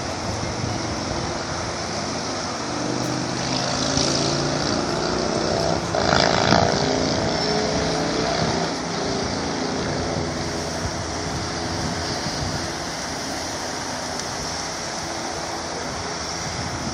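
Steady freeway traffic noise with wind on the microphone; a vehicle passes about six seconds in, swelling and fading.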